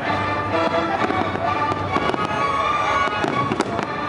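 Aerial fireworks shells bursting in a string of sharp bangs and crackles, over music with sustained tones.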